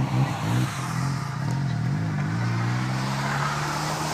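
Turbocharged car engine under hard driving, its pitch swinging up and down through the first couple of seconds, then pulling steadily with a slowly rising pitch as the car accelerates, with rushing noise building near the end.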